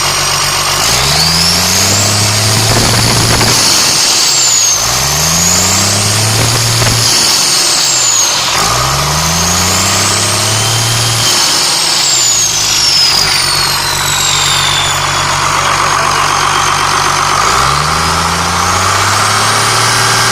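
Cummins C8.3 turbo-diesel inline-six revved up four times and let fall back toward idle, the last rev near the end. Each rev is joined by a high whistle that rises and falls with the engine.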